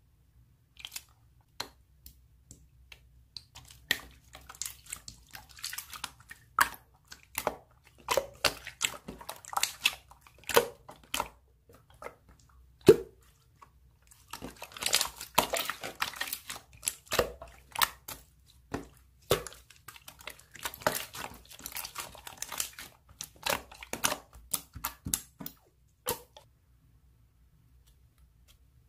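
Slime being squished and pressed by hand, giving irregular sticky clicks and pops, busiest in the middle, that stop about 26 seconds in.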